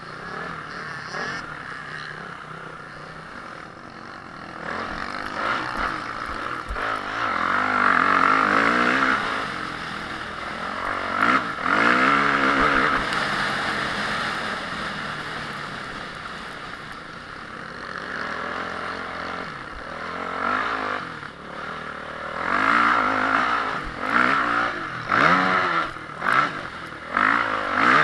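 Honda CRF450R motocross bike's single-cylinder four-stroke engine revving up and falling back over and over as the throttle is opened and shut. It is loudest about a third of the way in and again near the end, with brief sharp cuts in the sound between pulls.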